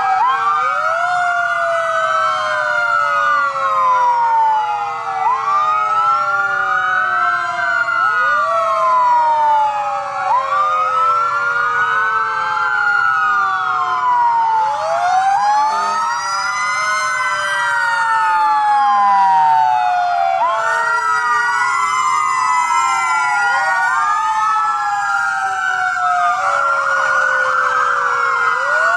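Sirens of many emergency vehicles sounding together, their wails overlapping and rising and falling out of step with one another.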